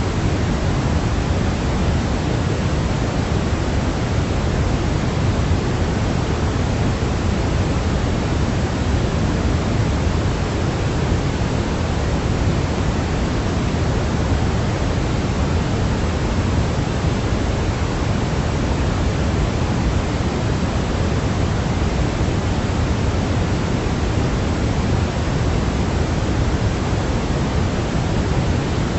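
Steady, unbroken sleep noise of the kind sold as white noise for babies, heavier in the low end and thinner toward the top, closer to pink noise. It has no rhythm or events and does not change.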